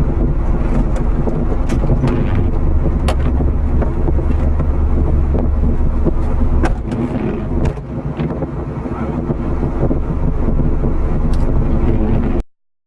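Subaru Forester's flat-four engine running as the car moves over a rough off-road trail, with scattered sharp knocks and clicks. The low engine rumble eases off about two-thirds of the way through, and the sound cuts off suddenly near the end.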